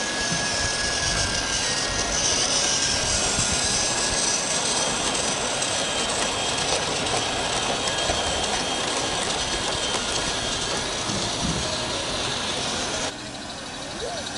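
Steady hiss of a small live-steam garden railway locomotive running. The sound drops away suddenly about 13 seconds in.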